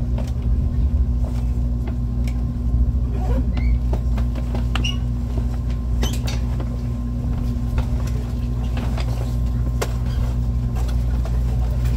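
Inside the cabin of an ITX-Maeum electric multiple-unit train running along the track: a steady low rumble with a constant hum, broken by scattered clicks and a few brief high squeals from the wheels and running gear.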